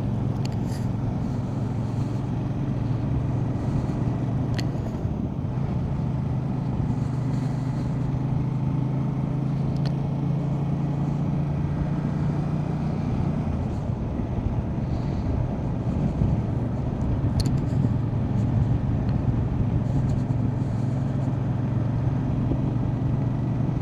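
Motorcycle engine running steadily while riding, its note shifting in pitch about five seconds in and again around thirteen seconds, with road and wind noise.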